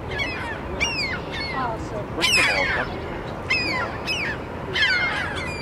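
Waterbirds calling: a series of shrill calls, each falling sharply in pitch, several overlapping about two seconds in and again near the end.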